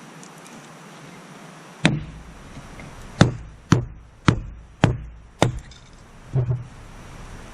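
Small axe chopping wood: about seven sharp strikes, one alone about two seconds in, then five in a steady run about half a second apart, then a quick double knock.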